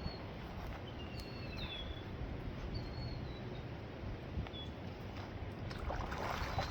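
Small birds chirping with short, high calls over a steady outdoor background with a low rumble; a rustling starts about six seconds in.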